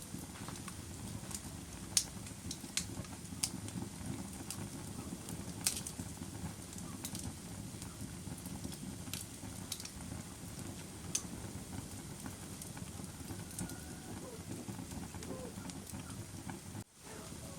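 Campfire burning: a steady low rumble of flames with scattered sharp pops and snaps of burning wood, several of them in the first six seconds. There is a momentary drop-out near the end.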